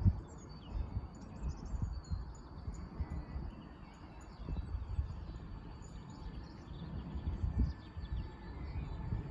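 Birds chirping over an irregular low rumble of background noise.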